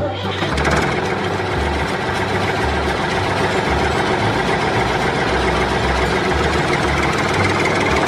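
Small engine of a homemade mini tractor running steadily.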